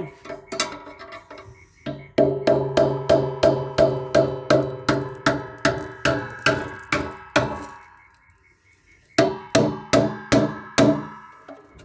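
Repeated hammer blows on the metal of a solar inverter, about three a second, each strike ringing. A run of about a dozen blows stops, then after a pause a second run of about six follows. The hammering is to knock loose a part held in with adhesive.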